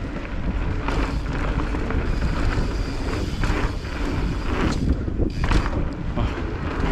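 Wind buffeting the microphone over the rumble of a mountain bike riding fast down a dirt singletrack, with brief rattles and scrapes from the tyres and bike at irregular moments.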